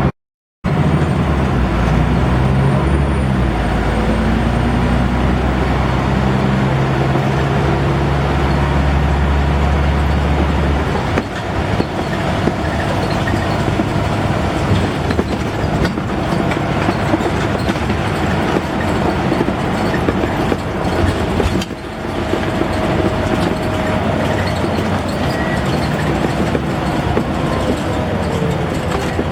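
Scania N94UD double-decker bus's five-cylinder diesel engine heard on board, pulling hard with a low steady drone that steps up in pitch several times over the first ten seconds as it works through the gears. It then runs on under road and body rattle, and a thin whine falls away near the end.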